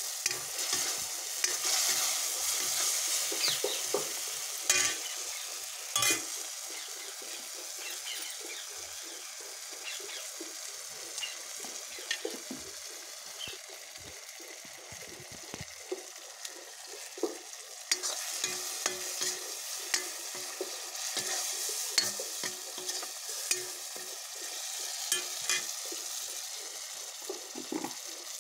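Food frying in oil in a kadhai, a steady sizzle that swells in the first few seconds and again near the end. A metal ladle clicks and knocks against the pan now and then as the food is stirred.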